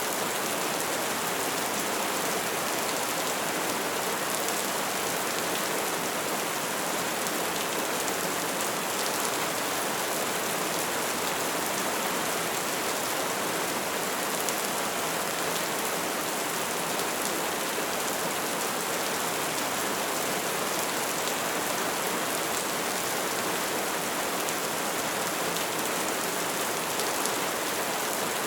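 Wood fire burning with a dense, steady crackle and hiss.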